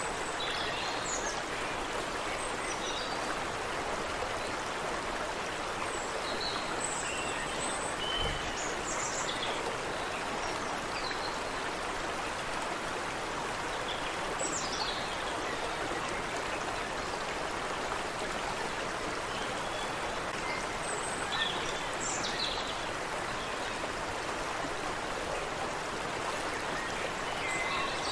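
Water running steadily over stones in a stream, with birds chirping and calling faintly and intermittently above it.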